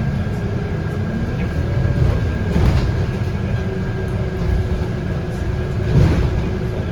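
Scania K230UB bus in motion, heard from inside: its 8.9-litre five-cylinder diesel and ZF Ecomat automatic gearbox running under the steady rumble of the road, with a faint whine. A couple of brief knocks or rattles come about three and six seconds in.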